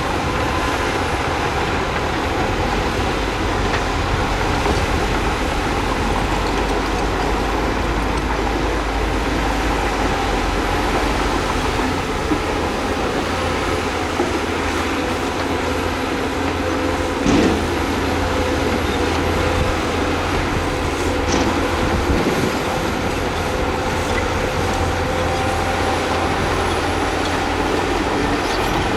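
Crawler bulldozer working: diesel engine running steadily under load, with its steel tracks clanking and squealing. A short sharp knock comes about 17 seconds in.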